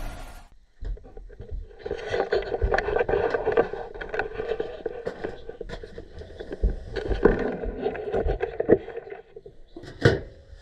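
Irregular knocks, clicks and scraping, like something being handled or moved, over a steady mechanical hum, with a sharp knock near the end.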